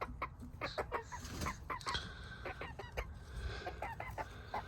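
Hens clucking and chirping softly, a steady stream of short, quick calls one after another.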